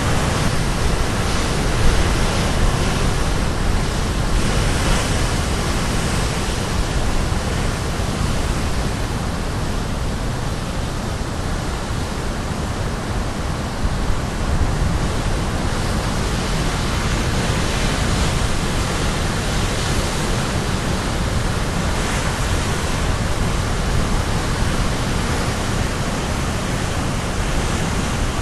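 Sea waves breaking on a rocky shore, a steady rushing wash of surf that swells and eases a little, with wind on the microphone adding low rumble.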